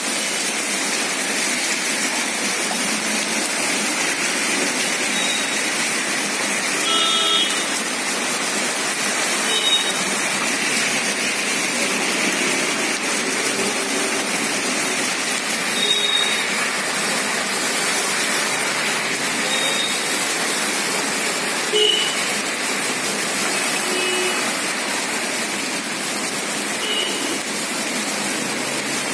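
Heavy rain falling steadily, a continuous hiss, with a few brief high-pitched tones here and there.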